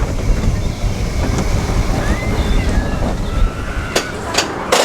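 Roller coaster train running along its track, heard from on board: a loud low rumble with wind buffeting the microphone, and a few sharp clacks near the end.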